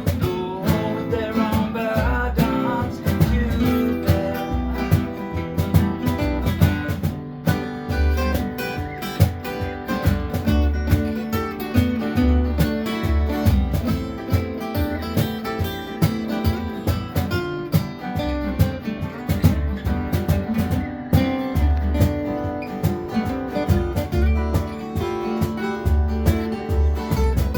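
Country-style band music: strummed acoustic guitar over a steady beat, with no singing.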